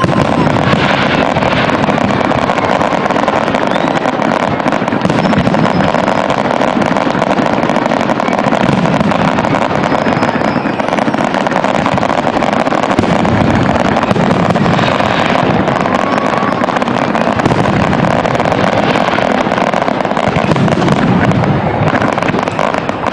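Fireworks display: a dense, continuous run of bangs and crackling, with a few short whistles among them.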